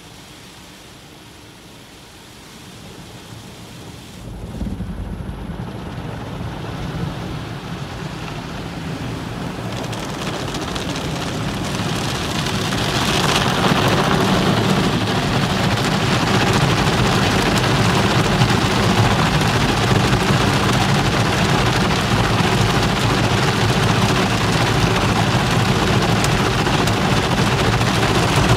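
Car wash equipment running: a low rumble sets in about four seconds in, and a dense rushing of spray and machinery grows steadily louder until it is loud and constant from about halfway through.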